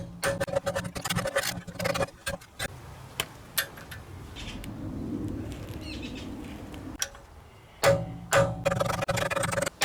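Power drill boring out a heavily corroded driveshaft hub nut, the motor running under load with the bit chattering and squealing on the steel. It drills hard in two spells, with a quieter grinding stretch between them.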